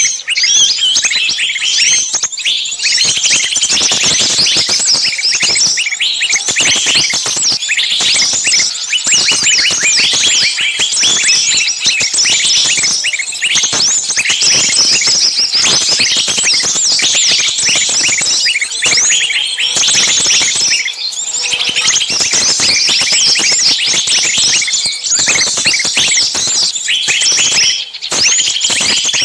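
A dense chorus of many small birds chirping and calling at once, their short, high, overlapping chirps running without a break.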